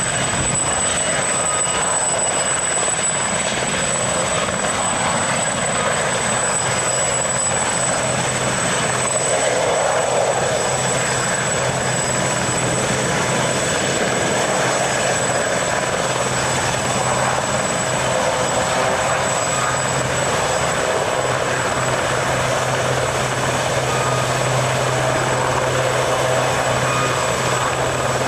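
A helicopter running steadily, a continuous even engine and rotor noise with a low steady hum.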